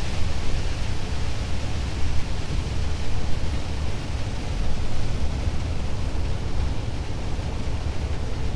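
Scania S500 truck cruising on a wet motorway: a steady low engine drone under a constant hiss of tyres on the rain-soaked road.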